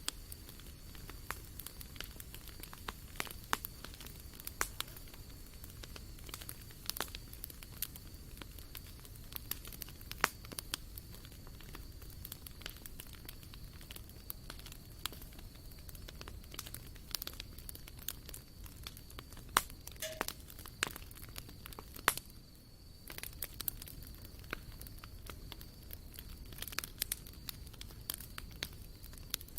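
Wood campfire crackling, with irregular sharp pops and snaps from the burning logs, a few louder ones standing out.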